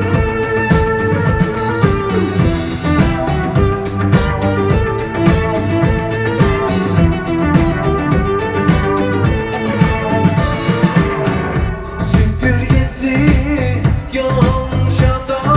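Live folk-rock band playing an instrumental passage of a Turkish folk song: a drum kit keeps a steady beat under bass and a plucked-string lead melody.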